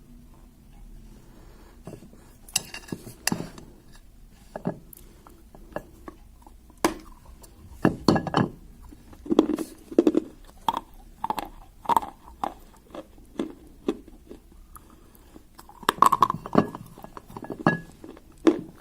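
Hard clay pieces clinking and clattering against a plate in a series of sharp clicks and knocks, some ringing briefly.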